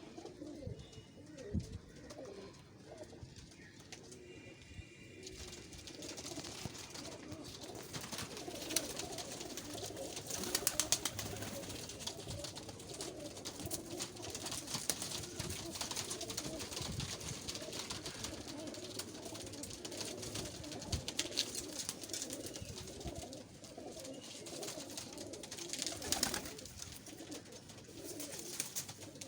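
Sherazi and Khall fancy pigeons cooing, several at once in a steady, overlapping chorus. A few sharp clatters come about ten seconds in and again near the end.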